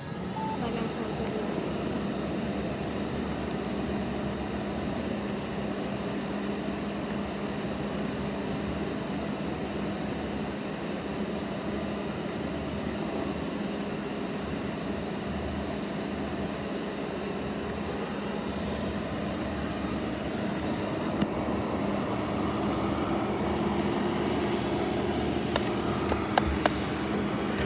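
Robot vacuum running, heard from a device riding on top of it: a steady motor hum with a low tone, starting suddenly at the beginning, with a few sharp clicks near the end.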